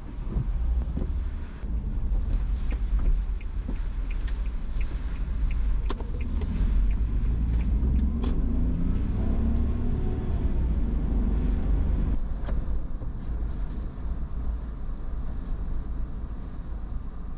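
Car running on the road, heard from inside the cabin: a steady low rumble of engine and tyres, with the engine note rising and falling once in the middle and a few scattered light clicks.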